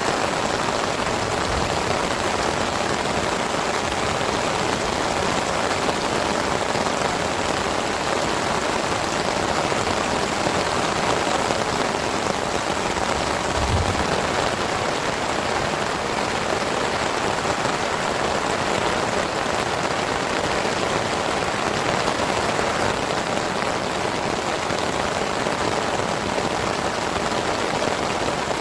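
Heavy rain falling steadily, with a brief low thump about 14 seconds in.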